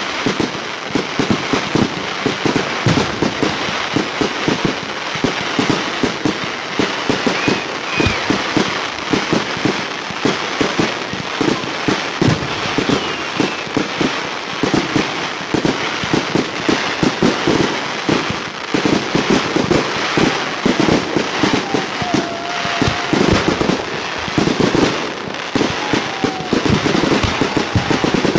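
Display fireworks firing in a rapid, unbroken barrage of bangs and crackles.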